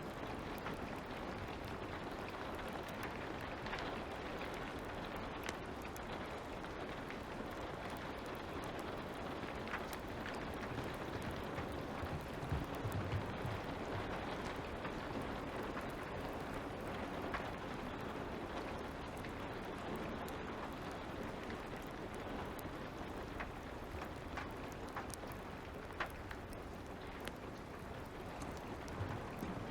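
Steady patter of light rain with a fire crackling underneath, scattered sharp pops from the burning wood. A few soft low thuds about twelve seconds in.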